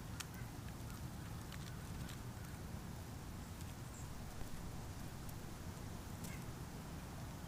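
Steady low outdoor rumble, like wind, with scattered faint ticks and clicks.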